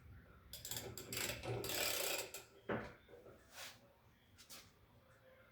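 Hand work on front-loading washing machine parts: bursts of rapid mechanical clicking and scraping, a single sharp click a little under three seconds in, then two shorter bursts.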